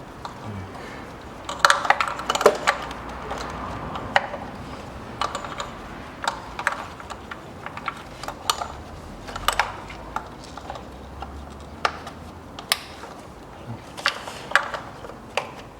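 Plastic wiring-harness connectors being handled and snapped onto the engine's ignition coils: irregular sharp clicks and small plastic rattles, with a busier cluster about two seconds in and another near the end.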